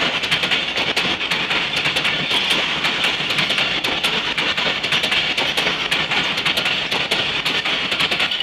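Passenger train coaches passing close by at speed: a steady rush of steel wheels on rail, with rapid irregular clicking as the wheels run over the track.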